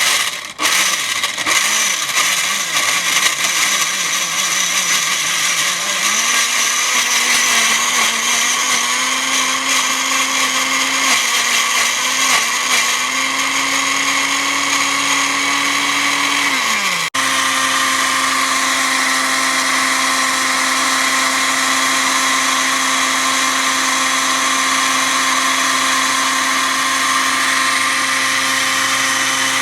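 A small electric motor running continuously with a loud whirring hiss and a hum whose pitch climbs slowly for several seconds, breaks off suddenly, and then holds steady.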